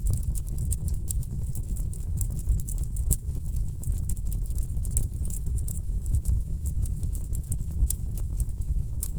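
Wood fire burning in a fireplace, with irregular sharp crackles and pops several times a second over a steady low rumble.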